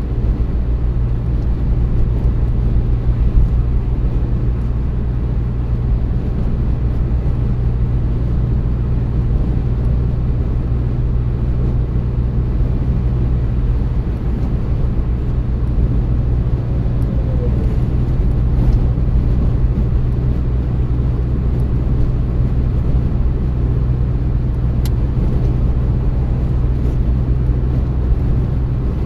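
Car driving at a steady speed: a constant low drone of engine and tyre road noise.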